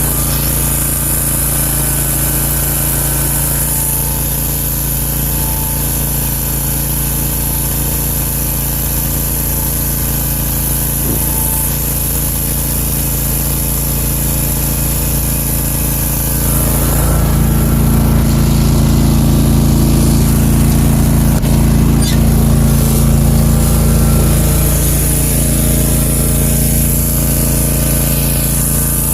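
Country Clipper zero-turn mower engine running steadily; a little past halfway it picks up, louder and higher in pitch for about seven seconds, then drops back.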